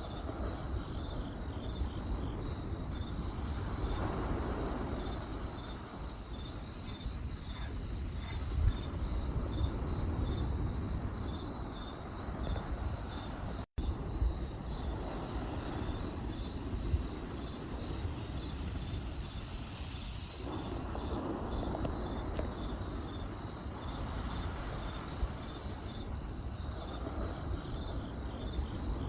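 Crickets chirping in a steady, pulsing high trill over a low rushing background of campfire and night ambience that swells and fades, with a few faint snaps. The sound cuts out for an instant about halfway through.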